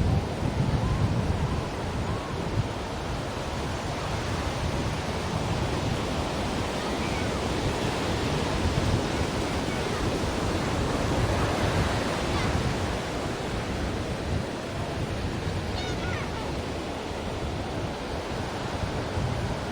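Ocean surf washing onto a shore: a steady rushing wash of breaking waves that rises and falls only gently in level.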